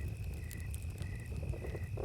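Night jungle ambience: crickets chirping about twice a second over a steady high insect drone, with campfire crackle and a low rumble. A frog starts croaking in short pulses about one and a half seconds in.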